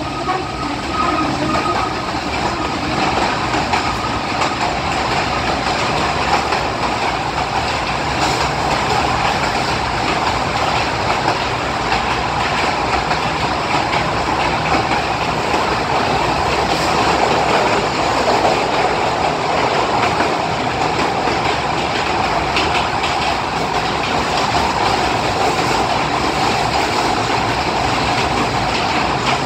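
Kurobe Gorge Railway trolley train running through a tunnel, heard from inside an open-sided passenger car: a steady, loud noise of the train moving on the rails, with no clear wheel rhythm.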